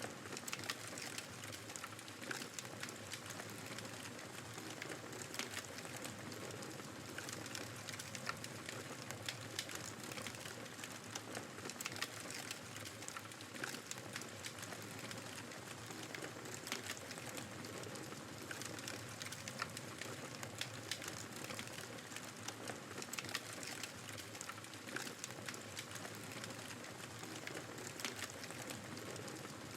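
Wood fire crackling, with irregular sharp pops and snaps scattered throughout, over a steady rush of blizzard wind.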